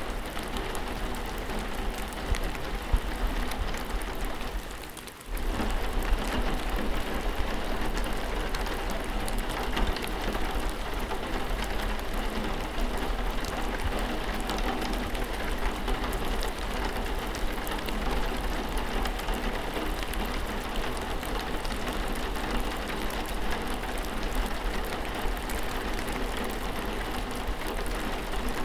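Steady rainfall, an even hiss with many separate drop hits ticking through it. The sound fades down briefly about five seconds in, then cuts straight back to full level.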